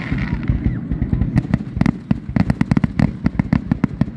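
Aerial firework shells bursting in a grand-finale barrage: sharp bangs, sparse at first and then several a second from about a second in, overlapping with their low echoes.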